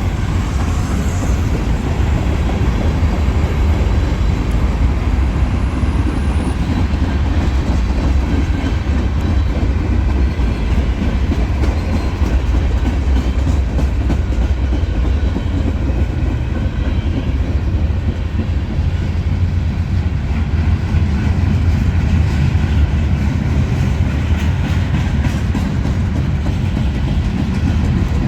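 Norfolk Southern freight train rolling past close by: a steady, loud low rumble of the cars with the clickety-clack of wheels over the rail joints.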